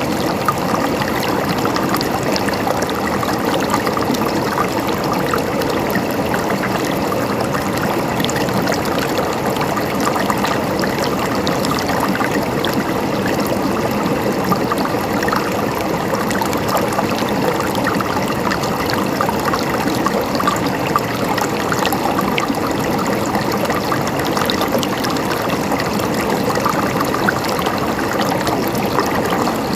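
Steady running water: a stream trickling and babbling over stones at an even, unchanging level.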